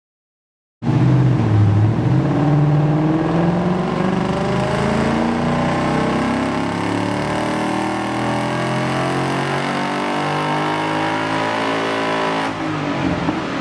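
Ford Mustang GT's 5.0-litre V8 through an aftermarket axleback exhaust, making a dyno pull. It starts suddenly about a second in and climbs steadily in pitch under full load for about eleven seconds, then the throttle is let off near the end and the note drops.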